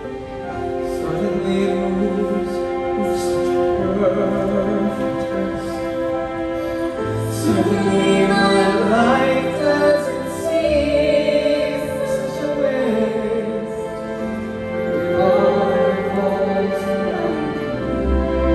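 Live music: a singer holding long, wavering notes over instrumental accompaniment.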